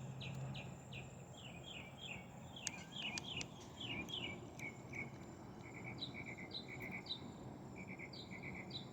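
Small birds chirping: rapid short descending chirps, giving way about halfway through to short quick trills and brief high notes.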